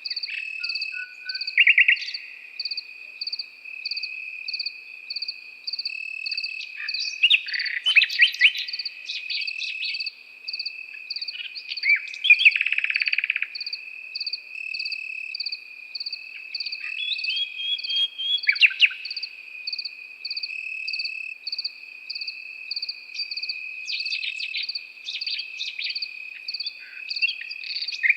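A nightingale sings in separate bursts of rapid repeated notes and rattles, loudest about a third and about halfway through. Behind it crickets keep up a steady high trill, with a higher chirping pulsing about twice a second.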